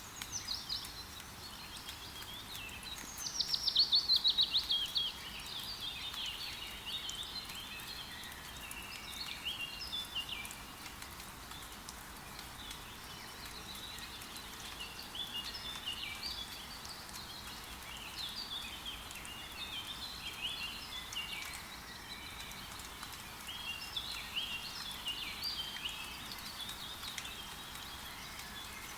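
Forest birds chirping and calling over a steady hiss of rain. About three seconds in, one bird gives a loud, rapid trill that falls in pitch and lasts about two seconds.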